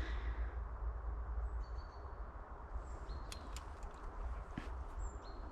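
Steady low rumble of a bicycle ride along a forest track, with a few brief high bird chirps and a few light clicks scattered through.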